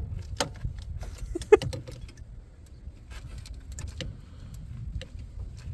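Scattered metallic clicks and clinks of a socket and extension knocking against a spark plug as it is worked on and fails to seat properly, with one sharper clink about a second and a half in, over a low steady rumble.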